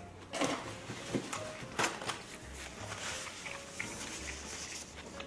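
Close-miked chewing of a mouthful of raw water parsley (minari) and pork belly: wet mouth sounds with a few sharp clicks.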